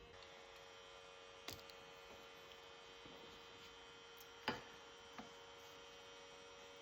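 Near silence with a steady low electrical hum and three short clicks, the sharpest about four and a half seconds in.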